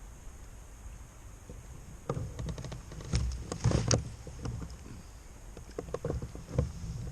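Irregular knocks and taps of gear being handled aboard a kayak, clustered from about two seconds in and loudest near four seconds, with a few more near the end. Beneath them runs a low steady rumble of wind and water.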